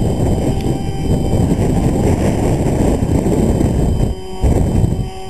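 Strong wind buffeting the microphone, a heavy gusting rumble that eases briefly about four seconds in, with a faint steady hum beneath it.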